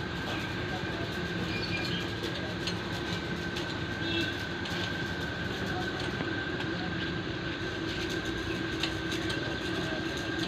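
A machine running steadily, a constant noise with a steady whine, and a few light clicks over it.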